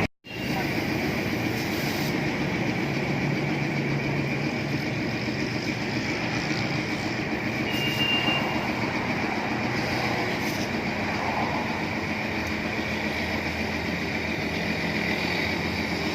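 An engine running steadily, with a brief cut to silence just after the start.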